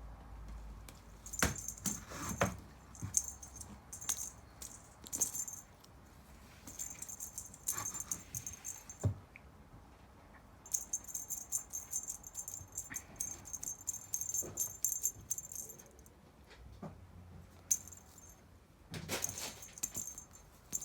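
A small bell jingling in quick shaking bursts, again and again, as cats bat at and chase a toy, with a few soft thuds in between.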